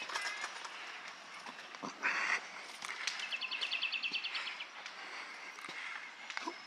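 Wild songbirds singing outdoors: a short buzzy note about two seconds in, then a fast trill of repeated high notes lasting over a second, with scattered chirps around them. Footsteps on a trail give faint, uneven knocks underneath.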